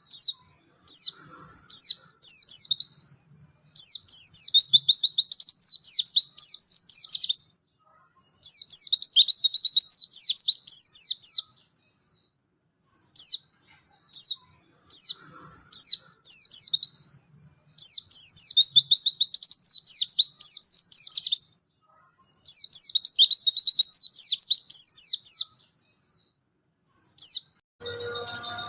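A white-eye (pleci) singing: phrases of fast, high, twittering notes, each note sweeping downward, lasting about three to four seconds with short pauses between them, about six times over.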